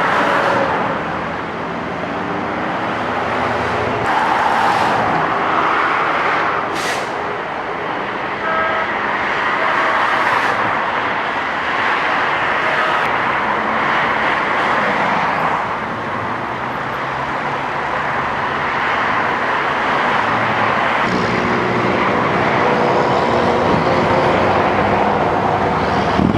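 Freeway traffic passing, cars and trucks swelling and fading every few seconds, with a steady engine hum joining near the end.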